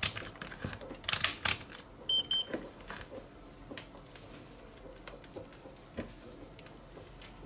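Several sharp clicks of small tools or probes being handled, then a single short high beep from a digital multimeter about two seconds in, followed by a few faint ticks.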